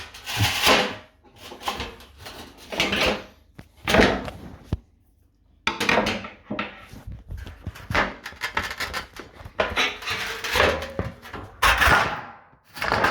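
A big screwdriver jammed and levered between the decor panel and the metal door of an integrated dishwasher, with irregular scraping, rasping and knocking, and a short pause about five seconds in. The panel is stuck on with Velcro.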